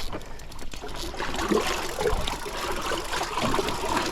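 River water trickling and splashing close by, with scattered small knocks and splashes.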